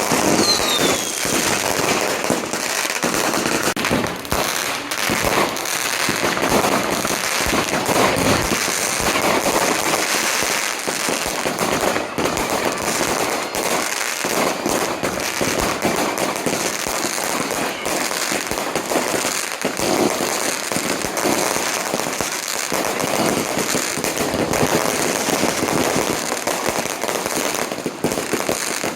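A long run of firecrackers going off in rapid, dense crackling and popping without a break, with a brief falling whistle right at the start.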